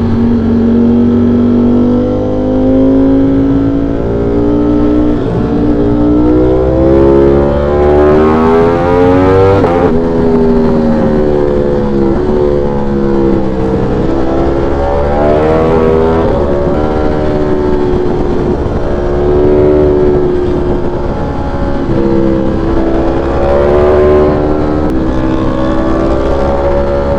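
V4 sportbike engine under way, its pitch climbing as the bike accelerates and falling back as it eases off, with a sharp drop about ten seconds in, over a steady rumble of wind and road noise.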